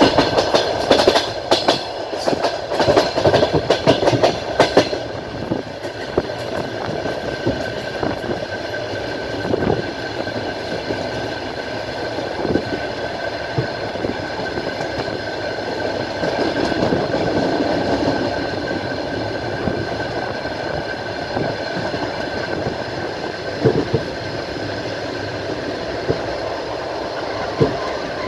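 Train wheels running on the rails, heard from inside a carriage at the window. There is a quick run of clattering clicks over rail joints in the first five seconds, then a steady rumble with a few single knocks and a faint steady whine.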